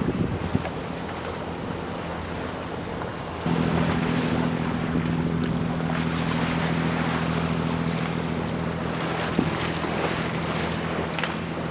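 Wind buffeting the microphone over water noise on a small sailboat, with a steady low engine hum that steps up suddenly about three and a half seconds in and then holds.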